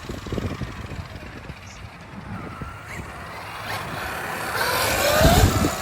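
Traxxas XRT Ultimate electric RC monster truck driving, its motor and gears whining and rising in pitch as it speeds up near the end, over a low rumble.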